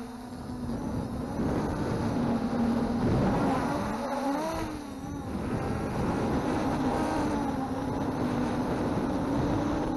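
MJX Bugs 3 quadcopter's brushless motors and propellers whining in flight, the pitch rising and falling over and over as the throttle is worked through hard manoeuvres.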